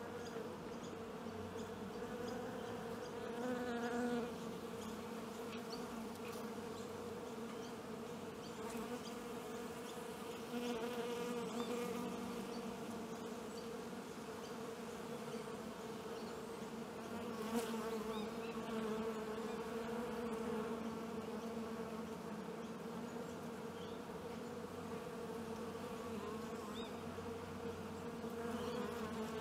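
Steady buzzing hum of a large honeybee colony massed on an open comb, swelling a little louder now and then.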